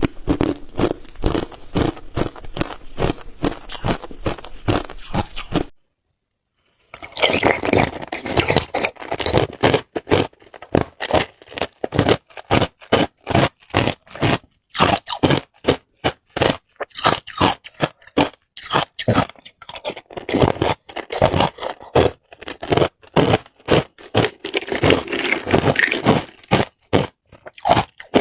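Hard ice cubes being bitten and chewed close to the microphone: a fast, continuous run of sharp crunches. The sound cuts out completely for about a second, roughly six seconds in, then the crunching resumes.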